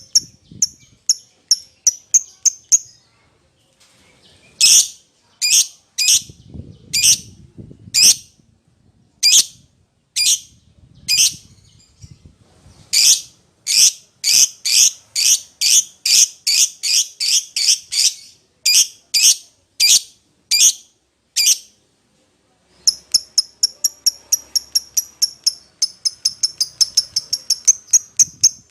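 Lovebird calling to another lovebird with short, shrill, high-pitched calls repeated one after another. A quick run opens, then louder single calls come about one or two a second, and after a short pause near three-quarters of the way the calls turn into fast, softer chattering.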